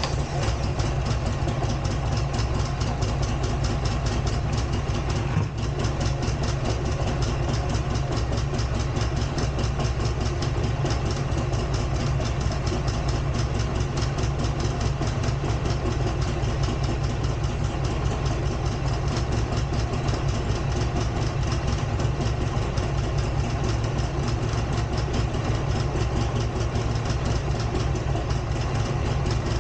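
Buell XB12R's air-cooled V-twin engine idling steadily, with a fast, even pulse.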